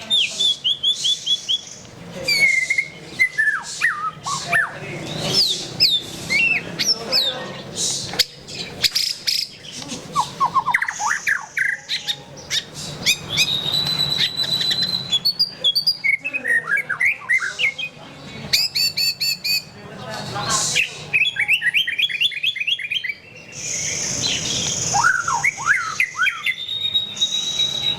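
White-rumped shama (murai batu) singing a long, varied song: clear whistles, quick sweeping notes, fast trills and harsh rattling phrases following each other without pause.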